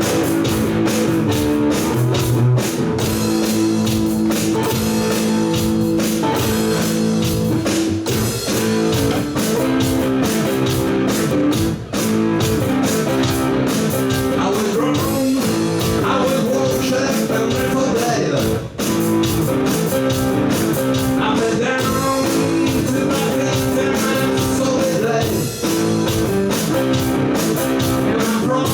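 Live rock band playing continuously, with guitars to the fore.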